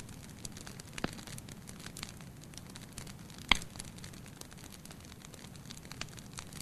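Wood fire crackling in a fireplace: a steady low rustle of burning with scattered small snaps, a sharper snap about a second in and one loud pop about three and a half seconds in.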